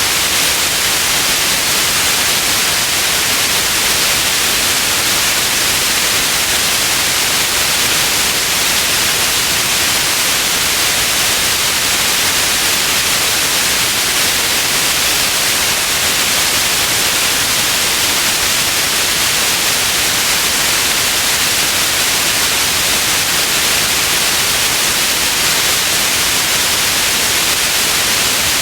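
Steady white noise: an even, unbroken hiss, brightest in the upper range, with no change in level.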